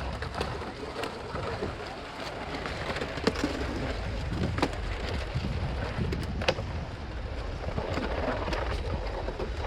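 Sea waves washing on the shore: a steady rush of surf, with wind rumbling on the microphone and a few sharp clicks.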